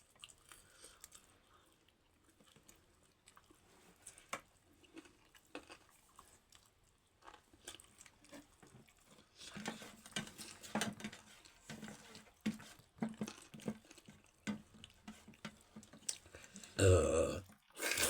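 Close-miked mouth sounds of someone eating dhindo and chicken in gravy: wet chewing and smacking clicks, sparse at first and busier about halfway through. A louder thump comes near the end.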